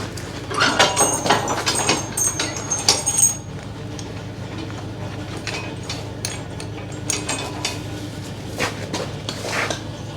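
Metal rattling and clinking of horse-drawn farm equipment, busiest in the first three seconds and sparser after, over a steady low hum.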